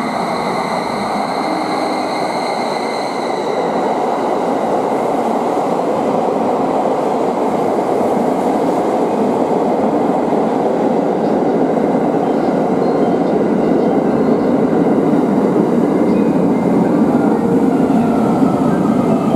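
683 series electric limited-express train pulling into a platform and slowing, its carriages rolling past with a steady rumble of wheels on rail that slowly grows louder. A high whine, falling slightly in pitch, fades out over the first three or four seconds.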